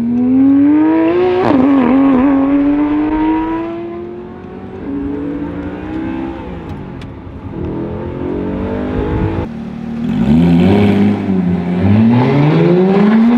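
Audi R8 engine revving as the car accelerates hard: the pitch climbs for several seconds, drops back and runs lower, then climbs again with brief dips in the second half.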